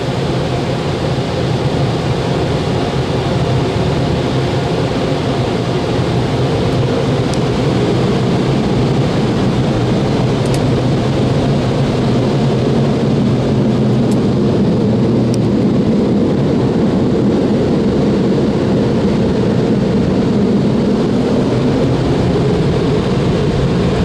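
Car wash's big blower dryers running, a loud steady rush of air heard from inside the car as it passes through.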